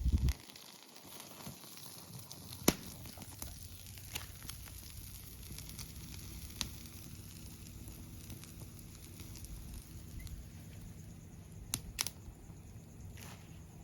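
Campfire crackling, with a few scattered sharp pops; the loudest pop comes a little under three seconds in, and two more come close together near the end.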